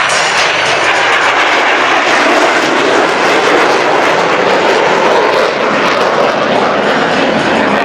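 Jet roar from Boeing F/A-18 Super Hornets making a low pass, a loud steady rushing noise that swells slightly in the middle.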